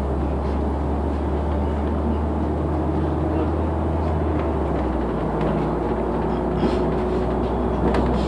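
Inside a moving city bus: the engine hum and road noise run on steadily, and the low engine tone changes about five seconds in.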